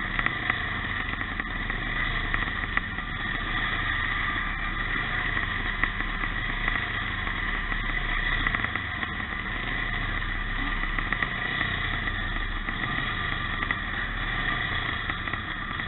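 Classic pre-1965 motocross motorcycles running on the race track: a steady mix of engine sound with no single bike standing out.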